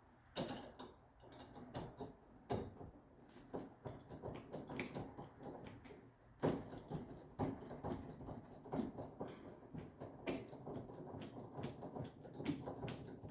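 Small metallic clicks and knocks from a spanner working a stubborn lock nut, in an irregular run with a few louder knocks.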